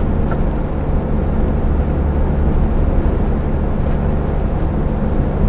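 Iveco truck's diesel engine and tyre noise heard from inside the cab, a steady low drone while the truck overtakes on the motorway.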